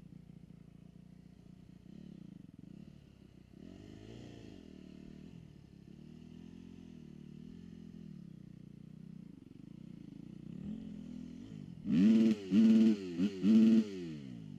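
Motocross dirt-bike engines revving and easing off. Near the end, one bike close by gives four loud bursts of throttle, one of them short.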